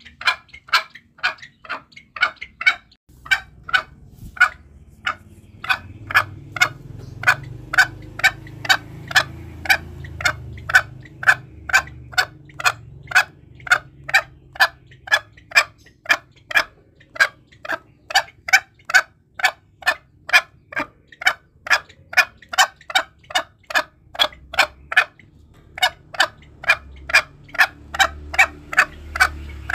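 Green junglefowl giving a long series of short, sharp clucks, about two and a half a second, with brief pauses about 3 seconds in and near the end of the series' middle stretch. It is a lure call for hunting junglefowl, meant to provoke rival birds.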